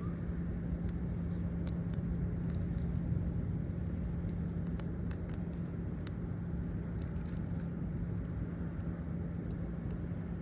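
Campfire crackling: scattered sharp pops and ticks at irregular intervals over a steady low rush, with a constant low hum underneath.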